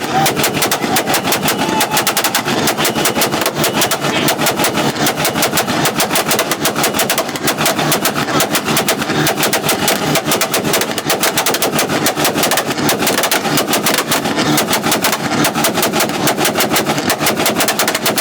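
Car engine held on a two-step launch-control rev limiter: a rapid, unbroken string of exhaust pops and bangs, several a second.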